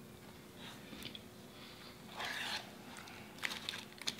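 Quiet close-miked eating sounds: a person chewing, with small scattered mouth clicks. A short rushing noise comes about two seconds in, and a few sharper clicks near the end.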